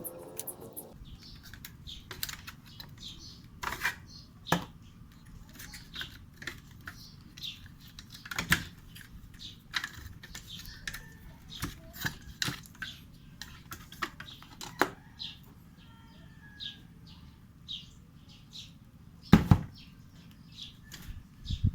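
Irregular clicks and light knocks, as of hands working on a UPS unit during a battery change, with a louder knock about 19 seconds in.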